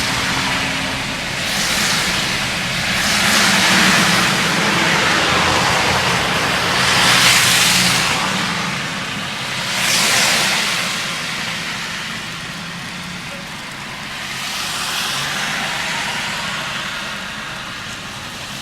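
Car driving on snowy, slushy roads: a steady engine hum under tyre and road hiss that swells and fades several times.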